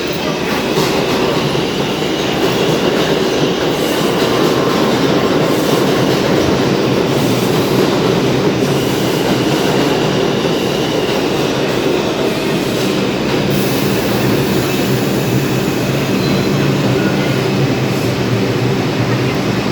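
R62A subway train running into the station, its wheels rumbling and clattering on the rails. A steady low hum joins in about two-thirds of the way through.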